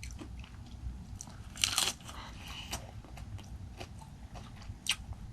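Close-miked chewing of a mouthful of raw fish sashimi, with small wet mouth clicks and a brief noisy rush of breath about one and a half seconds in.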